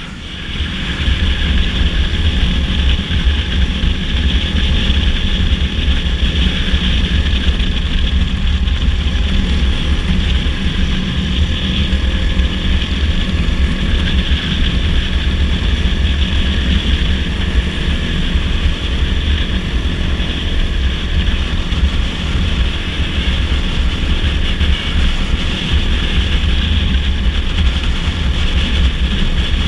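Dirt bike engine running steadily while riding at speed, with a heavy wind rumble on the microphone.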